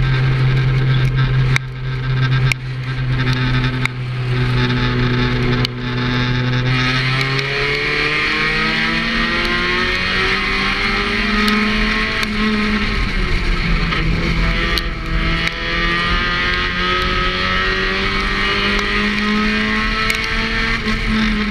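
Thunder-class race car's engine heard on board at racing speed, holding a steady pitch for the first several seconds, then rising and falling with the throttle. A few sharp knocks come in the first few seconds.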